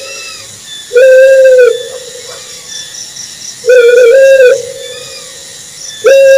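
Owl hooting: loud, drawn-out single-pitched hoots, one about every two and a half seconds, the second one wavering in pitch and the third starting near the end. A faint steady hiss lies underneath.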